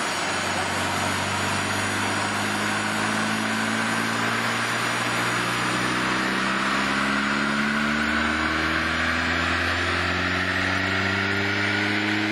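VW Jetta 1.8-litre four-cylinder engine running under load on a dyno through a Silverline exhaust, its pitch climbing slowly and steadily as the revs rise through a pull.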